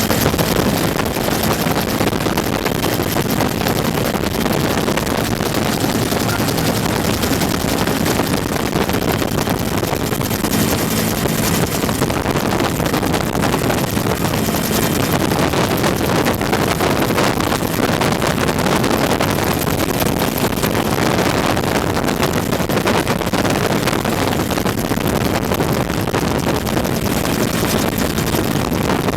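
Bell UH-1 Huey helicopter running steadily, heard from on board: the single turboshaft engine and two-blade rotor make a loud, continuous roar with a faint steady hum underneath, and wind noise on the microphone.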